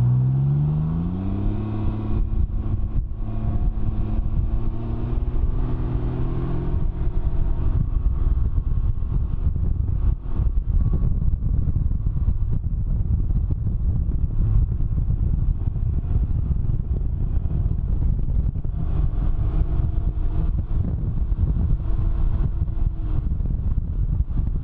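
Can-Am Ryker three-wheeler's engine rising in pitch as it accelerates over the first couple of seconds, then holding a steady drone at speed. Heavy wind rumble on the microphone throughout.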